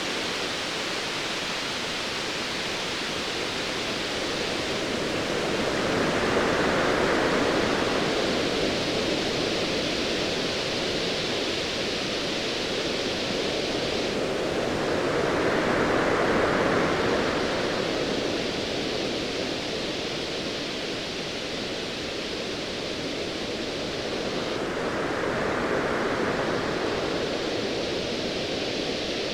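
Ocean waves: a steady rushing wash that swells up three times, roughly ten seconds apart, as waves surge in.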